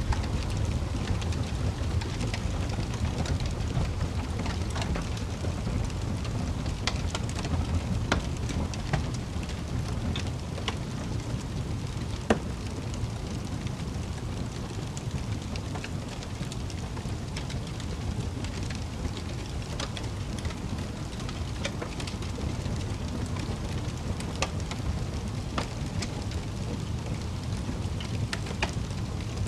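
Wood fire crackling in a fireplace: a low, steady rumble of the flames with irregular sharp pops and snaps.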